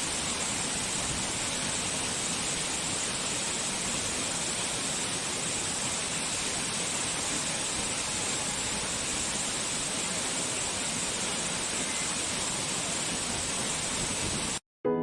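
Waterfall: a steady rush of falling water with no music, cutting off suddenly near the end.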